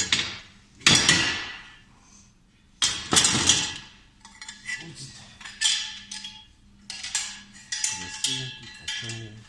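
Forged steel fireplace tools clanking against each other and their stand as they are handled: a few loud ringing knocks early, then a run of lighter metallic clinks.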